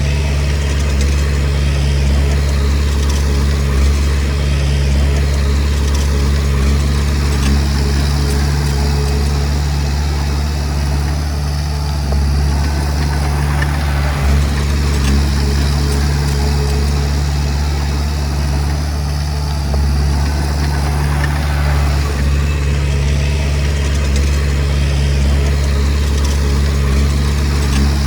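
Komatsu D20P bulldozer's diesel engine running steadily with a constant low drone, and a single short knock about halfway through.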